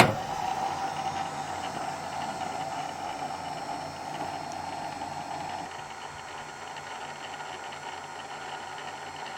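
Electric truck-camper jacks (Happijac) running to lower their legs: a steady motor whine with a low hum, starting with a sharp click as the jacks are switched on and easing slightly about six seconds in.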